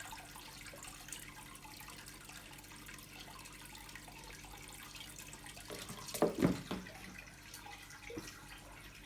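Faint trickling and dripping water, with a short cluster of louder splashy sounds about six seconds in.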